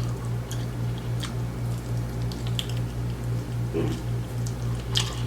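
Close-miked chewing of fried fish and wings, with wet squishy mouth sounds and scattered sharp clicks and smacks. A steady low hum runs underneath.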